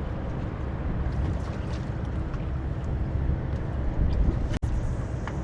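Boat engine running at idle under wind rumble on the microphone, with a few faint ticks; the sound drops out for an instant about four and a half seconds in.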